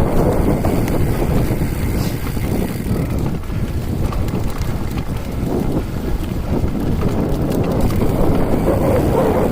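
Wind buffeting the microphone: a steady, loud low rumble with a few faint clicks.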